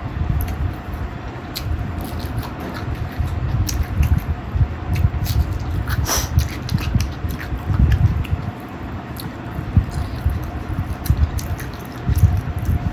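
Close-miked chewing and wet mouth noises of someone eating chicken fry with rice, with many irregular smacking clicks.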